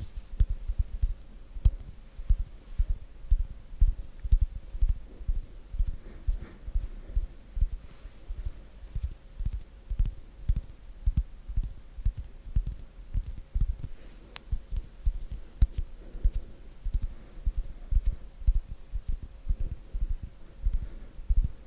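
ASMR hand sounds: hands moving and rubbing right against a sensitive microphone, giving a slow, irregular run of soft, low, muffled thumps about two a second, with faint dry skin clicks. A faint steady hum lies underneath.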